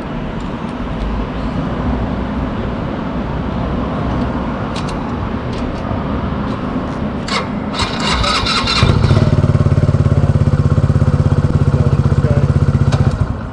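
Motorcycle engine started by the starter about eight seconds in, running at a steady idle for around four seconds, then cutting out suddenly: the stall a sidestand safety switch causes when the bike is put into gear with the kickstand down. Before that, a steady low rumble.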